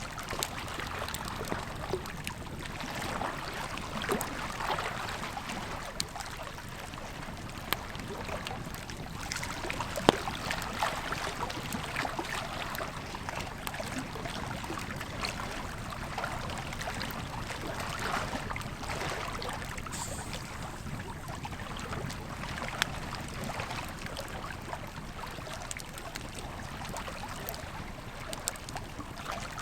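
Campfire crackling and popping over the steady rush of a river, with one sharper pop about a third of the way through.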